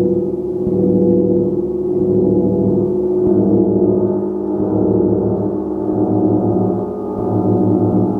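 Gong being played continuously, a dense wash of low, sustained overtones that swells and fades in slow waves as it is struck softly again and again.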